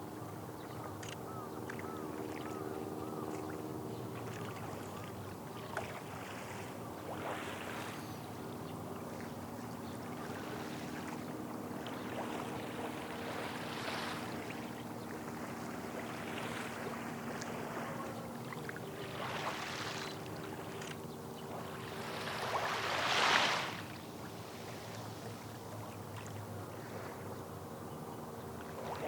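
Small waves washing in on the bay shore in soft, repeated swells, one louder wash near the end, over a steady low hum.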